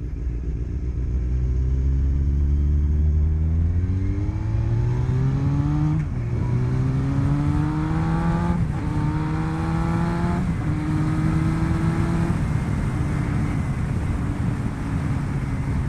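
Motorcycle engine accelerating hard, its pitch climbing and dropping back with each of about three upshifts, then settling into a steadier run, with wind rush under it.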